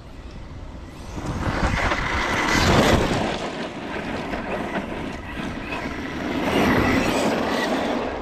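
Arrma Notorious 6S 1/8-scale stunt truck being driven, its Spektrum Firma 2050Kv brushless motor whining faintly over rough tyre and drivetrain noise. The noise builds about a second in and is loudest around three seconds in.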